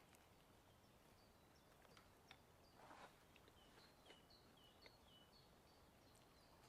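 Faint birdsong, a small bird repeating short high chirps in quick steps, over a quiet steady outdoor hiss. A brief soft crunch comes about three seconds in.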